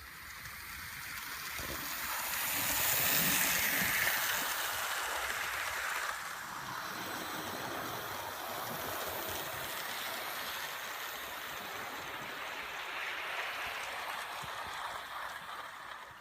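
Model train running along an outdoor garden-railway track, its wheels rattling on the rails. It grows louder over the first three seconds or so as it approaches, then runs on steadily.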